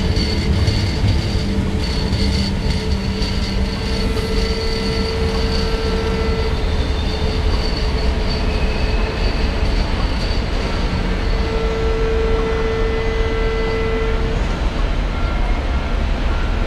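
Departing SBB Interregio train and an Re 460 electric locomotive rolling slowly through the station pointwork: a steady rail rumble with wheels squealing in long, steady tones, one squeal louder for a few seconds from about eleven seconds in.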